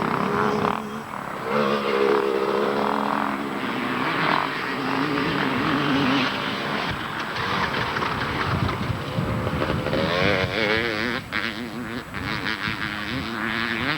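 Several two-stroke motocross bikes racing, their engines revving up and down as the riders work the throttles, with more than one engine heard at once.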